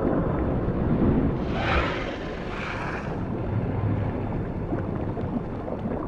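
Low, steady underwater rumble with a brief rushing swell about a second and a half in.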